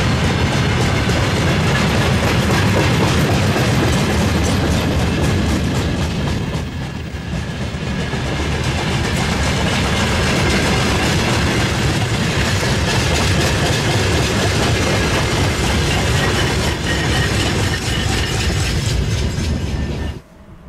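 Freight train rolling past, its wagon wheels clattering in a steady clickety-clack. The sound cuts off suddenly near the end.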